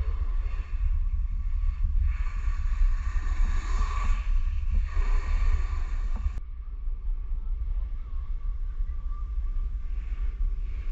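Wind buffeting the microphone as a steady low rumble, with a rushing hiss on top that cuts off abruptly with a click about six seconds in.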